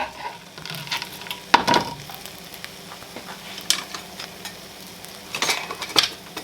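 Garlic sizzling in a frying pan while a utensil stirs it, knocking and scraping against the pan several times.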